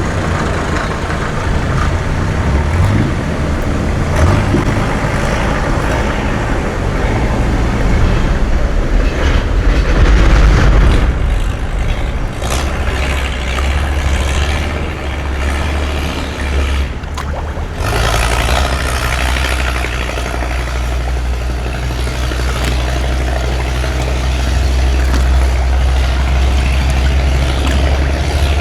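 A boat's engine running steadily and close by, a loud low drone that shifts briefly about two-thirds of the way through and then settles again.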